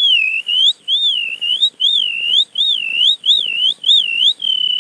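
A man whistling an imitation of the pidén's (plumbeous rail's) call: a run of quick rising-and-falling notes, then one long, slowly falling held note near the end.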